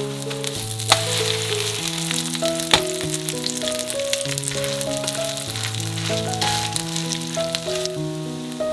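Cabbage pancake frying in plenty of oil in a nonstick frying pan: a dense, steady crackling sizzle. Two sharp knocks come about one and three seconds in as the pancake is flipped. Background music with a slow melody plays under it.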